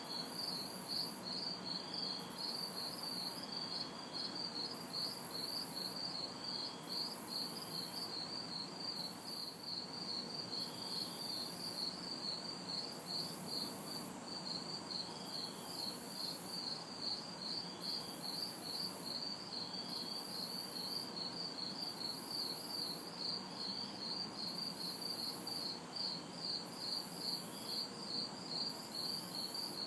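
Night insect chorus: crickets chirping in a steady, fast-pulsing trill, with a second, very high-pitched insect calling in on-off bursts about a second long. A faint hum of distant city traffic lies underneath.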